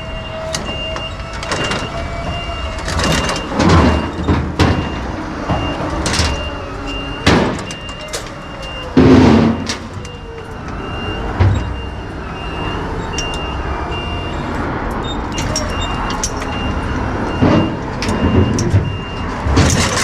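A vehicle engine runs under a steady, evenly repeating high beep, with scattered clanks and knocks of metal gear being handled; the loudest knock comes about nine seconds in.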